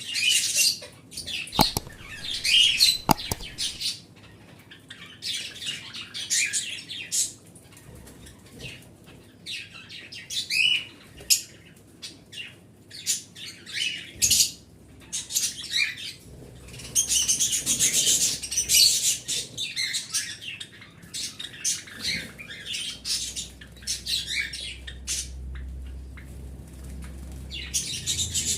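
Pet cage birds chirping in dense bursts of high, rapid chirps and tweets, with short lulls between the bursts.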